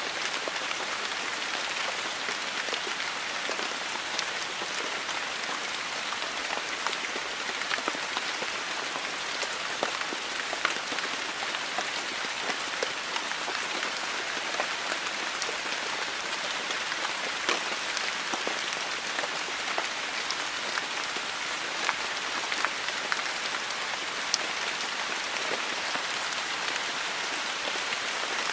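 Heavy rain pouring steadily, with frequent sharp taps of drops striking a hard surface.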